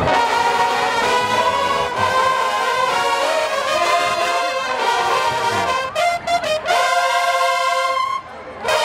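Marching band brass section playing a fanfare in loud, held chords, with a short break about six seconds in and a brief drop near the end.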